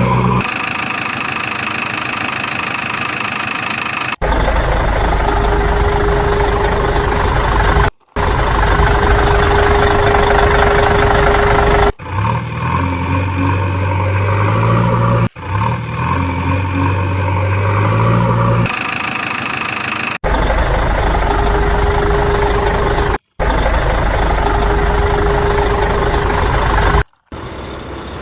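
Heavy-vehicle engine sound effects, diesel engines running and idling, spliced into segments that switch abruptly every few seconds. Some segments carry a steady mid-pitched whine over the engine.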